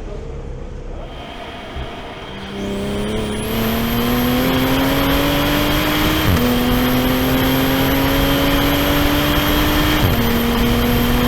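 Toyota GR Supra A90's engine accelerating hard, rising steadily in pitch through the gears, with two quick upshifts, one about six seconds in and one about ten seconds in. Before the first pull, about the first two seconds are quieter.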